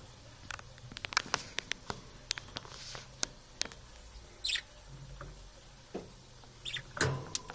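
Parrots feeding, with many quick irregular beak clicks and taps. A few short, high squeaky chirps come about halfway through and again near the end.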